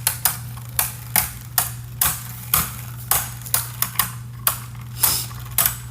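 Two Beyblade Burst spinning tops battling in a plastic stadium: irregular sharp clacks as they strike each other and the stadium wall, about two or three a second, over a steady low hum.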